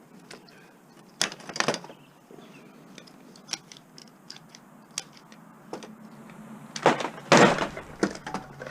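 Scattered clinks and knocks of metal parts being handled, with louder clattering about a second in and again near the end.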